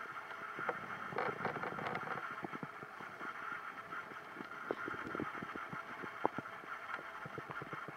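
Human stomach gurgling and rumbling, with many irregular small pops and bubbling sounds over a steady low hiss.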